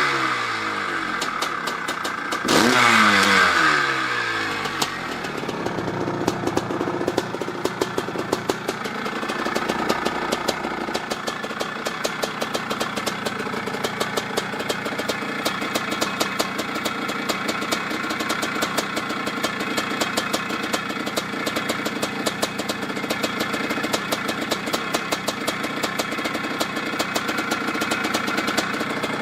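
1985 Maico 500 two-stroke single-cylinder dirt bike engine running: revs drop away from a throttle blip, it is blipped again about two and a half seconds in, then it settles to a steady idle with rapid, even firing pulses.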